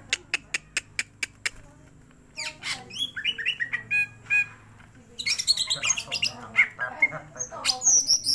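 Greater green leafbird (cucak ijo) calling agitatedly: a quick run of sharp clicks, then scattered chirped notes, building near the end into a dense burst of loud, high squawking song.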